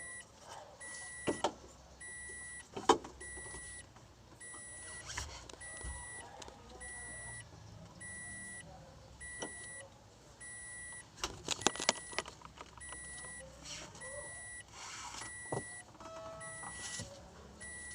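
A high electronic beep repeating about once a second, with sharp metallic clicks and clanks from hand tools, loudest about three seconds in and in a cluster near the middle.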